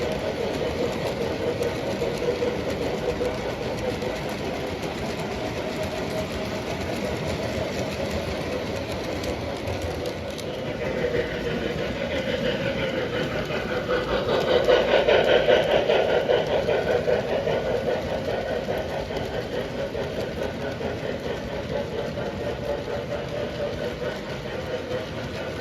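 Model train running on its track with a steady motor hum and rail clatter, growing louder and brighter for a few seconds about halfway through as it passes close, then easing back.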